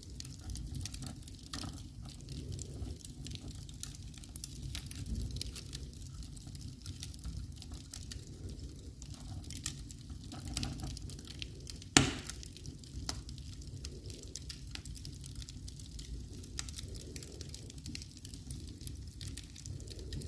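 Wood fire crackling, with many small scattered pops over a steady low rumble and one much louder pop about twelve seconds in.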